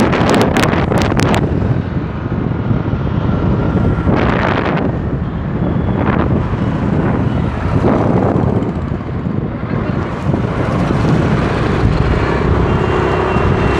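Wind buffeting the microphone of a moving motorbike, over steady road and traffic noise, with sharp crackles of wind in the first second or so.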